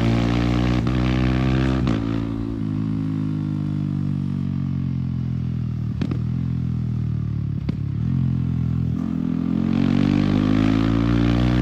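Yamaha R15 single-cylinder motorcycle with an aftermarket MTG exhaust, riding under throttle. Two quick upshifts early on each cut the engine note for an instant. It then rolls off with the revs falling, with two more gear changes along the way, and accelerates again near the end.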